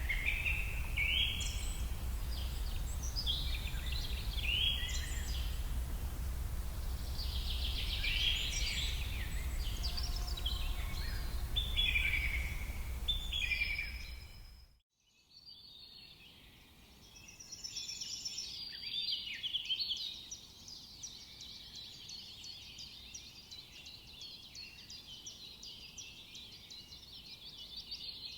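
Songbirds singing short, repeated chirping phrases over a low outdoor rumble. About halfway through, the sound cuts out for a moment and resumes as a quieter, denser chorus of birds with no rumble.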